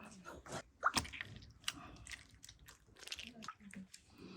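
Irregular wet squishing and small clicks of food being handled.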